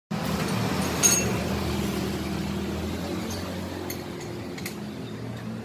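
Suzuki Satria 120 two-stroke single-cylinder engine idling steadily through a hollowed-out (bobok) exhaust. A sharp metallic clink comes about a second in, with a few fainter ticks later.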